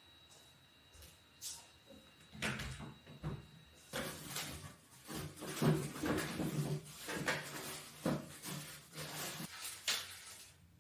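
Household handling noises: a string of knocks, clicks and clatters, as of cupboard doors, drawers or objects being moved about. They grow busier about four seconds in, and a faint steady high tone stops at about the same point.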